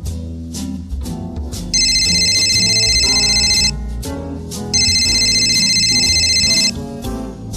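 An electronic phone ringtone rings twice over jazzy background music. Each fluttering ring lasts about two seconds, with about a second between them.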